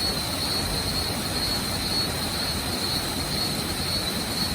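Waterfall: a steady rush of falling water, even and unbroken, with a thin steady high-pitched whine above it.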